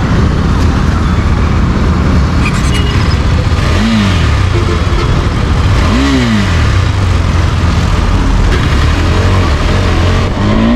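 KTM 390 Adventure's single-cylinder engine under way, heard through heavy wind and road noise; its note rises and falls in pitch about four seconds in, again about six seconds in, and near the end.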